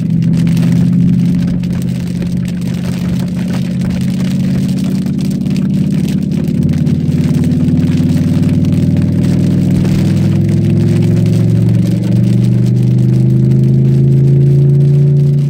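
Cadillac STS-V's supercharged V8 running under way on track, its pitch wavering and then rising gradually over the last few seconds as it accelerates.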